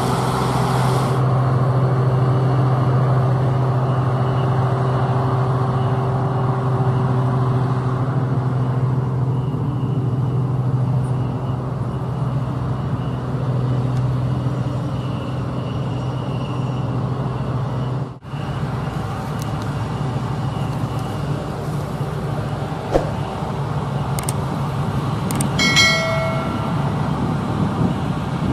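Diesel engines of harvest machinery running steadily with a deep hum. About two-thirds of the way through the sound cuts abruptly to another machine's engine, and near the end there are a few clicks and a brief high squeal.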